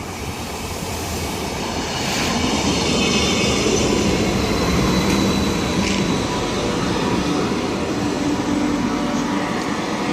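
A train running past close by, growing louder over the first few seconds and then holding steady.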